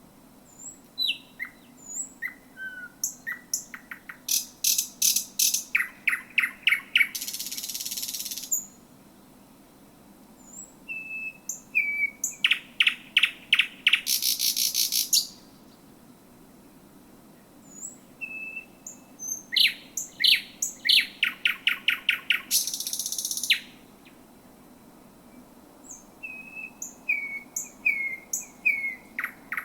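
Thrush nightingale singing close to the microphone: three long strophes, one about every nine seconds, and a fourth beginning near the end. Each opens with scattered whistled notes, runs into fast series of hard clicking notes and ends in a dry, rattling trill lasting a second or two.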